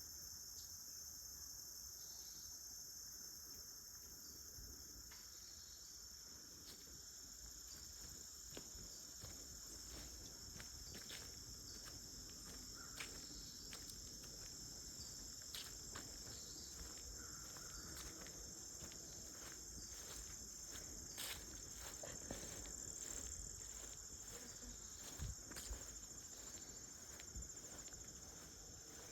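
A steady, high-pitched chorus of insects chirring in the woods. From about a third of the way in, scattered light clicks and taps sound over it.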